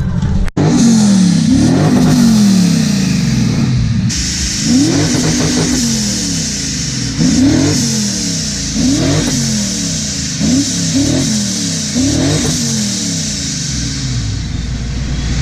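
Car engine being revved repeatedly, about eight times, each rev climbing quickly and falling back.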